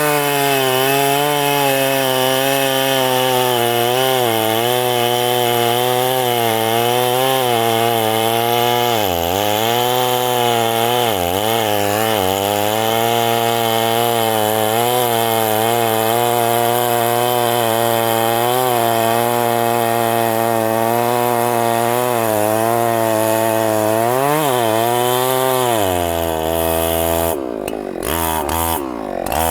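Two-stroke chainsaw running at full throttle in a cut through a very thick trunk, its engine pitch dipping briefly a few times as it bogs under load and recovers. Near the end the revs drop and surge unevenly with short breaks.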